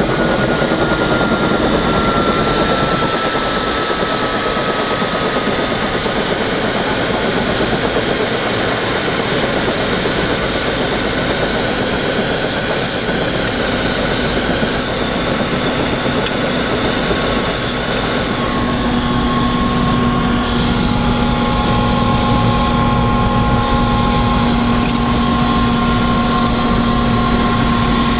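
Tour helicopter's turbine engine and rotor running steadily. About two-thirds of the way through, a steady low hum and a higher whine come in over the noise.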